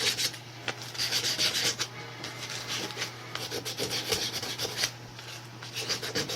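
Sanding the copper commutator of a Kawasaki KZ750 motorcycle starter motor's armature, where the brushes ride: rapid back-and-forth rasping strokes in spells, easing off briefly twice. The sanding takes off rust and grime to bring back bare copper for good brush contact.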